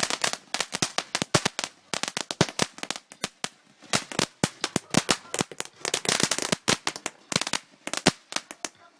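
Fireworks crackling: a dense, irregular run of sharp cracks and pops. It thins out briefly about three seconds in, then builds again.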